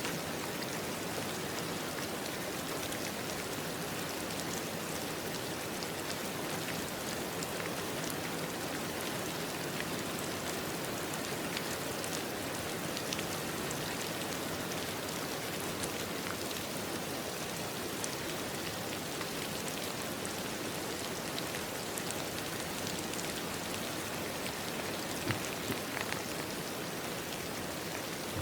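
Steady rain falling, an even hiss with scattered individual drops ticking, one a little louder near the end.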